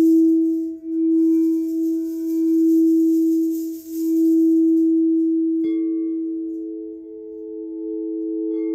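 Singing bowls: one bowl sings a steady low tone that swells and fades with a rubbing hiss over it. About five and a half seconds in, a second bowl is struck and rings a higher tone alongside the first.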